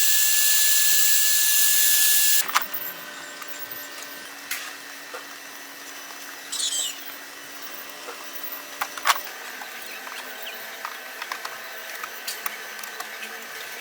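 A small high-speed power tool whirring with a steady high whine, then cutting off about two and a half seconds in. Scattered clicks and taps follow, with a brief hiss near the middle.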